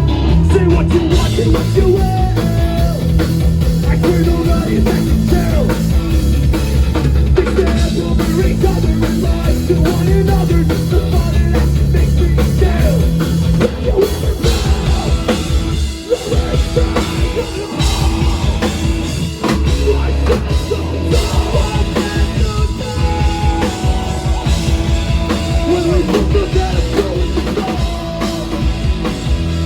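Rock band playing live at full volume: pounding drum kit, heavy bass and electric guitars.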